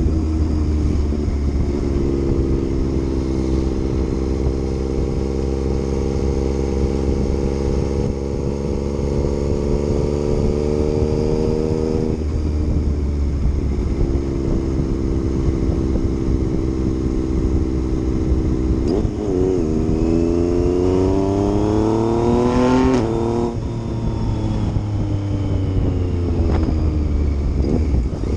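Yamaha MT-09's inline-three engine pulling hard under acceleration. The revs climb steadily and fall off sharply several times, about twelve seconds in, near nineteen seconds and again about twenty-three seconds in, as the rider shifts gears or rolls off the throttle.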